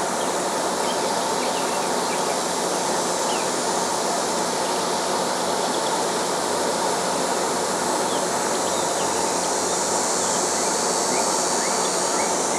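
Portable band sawmill running steadily, a constant mechanical noise with a faint steady hum in it.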